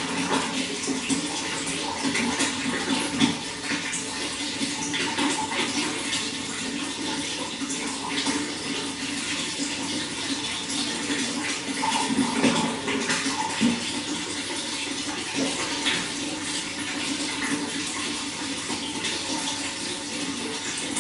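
Running water flowing steadily, with a constant pattern of small splashes and gurgles.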